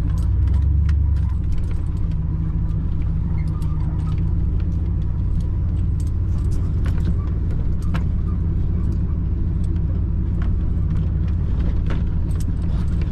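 Car driving on an unpaved track, heard from inside the cabin: a steady low road and engine rumble with frequent small clicks and rattles.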